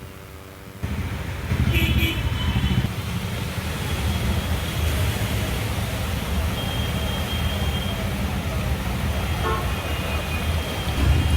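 Road traffic with vehicle engines running and horns honking several times, starting about a second in.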